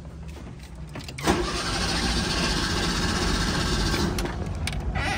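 Fiat 147 engine being cranked by the starter motor as it struggles to start. About a second in it turns suddenly much louder and harsher for about three seconds, then eases off.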